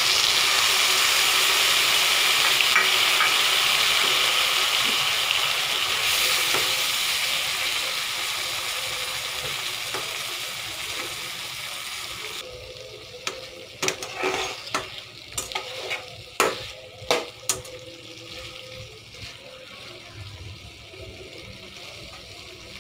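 Mustard paste with water hits hot oil and fried flat beans in a kadai and sizzles loudly, the sizzle dying down gradually over about twelve seconds. Then a metal spatula scrapes and knocks against the pan in a quick run of clicks as the beans are stirred.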